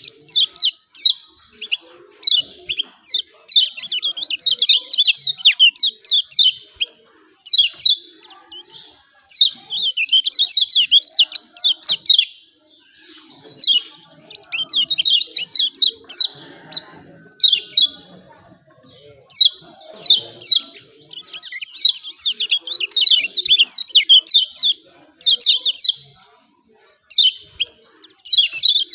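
Kecial kuning (Lombok yellow white-eye) giving its rapid, excited 'ciak ciak' chirping calls in phrases of one to three seconds, with short pauses between them. This is a lure call meant to set lazy caged kecial singing.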